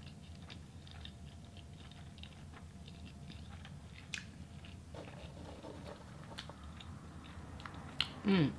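Close-miked chewing of food, with many small wet mouth clicks and crackles. Near the end comes a short, louder vocal sound that glides in pitch.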